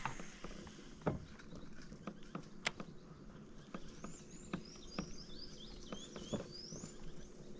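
Scattered light clicks and taps, with a bird singing a quick run of chirping notes that rise and fall from about halfway through.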